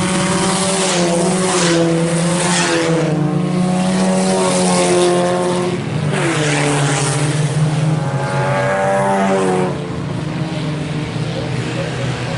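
A pack of IMCA Sport Compact race cars (four-cylinder compacts) running at full throttle around a dirt oval. The engine notes rise and fall as the cars pass, with a clear drop in pitch about six seconds in and again near the end.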